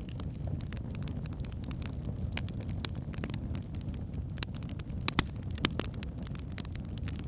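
Wood fire burning in a fireplace: a steady low rumble of flames with irregular sharp crackles and pops from the logs, a few louder pops a little past halfway.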